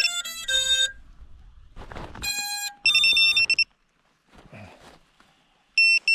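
Electronic beep tones from a 7-inch FPV drone as it powers up before a flight. A quick run of notes at changing pitches comes first, then two longer beeps a couple of seconds in, and three short high beeps near the end.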